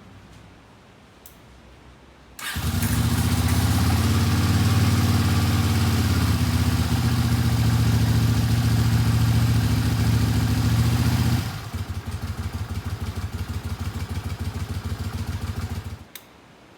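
Honda CX-EURO V-twin motorcycle engine starting about two seconds in and running at a raised, steady speed. After about nine seconds it drops to a slower idle with an even, pulsing beat, then is switched off near the end.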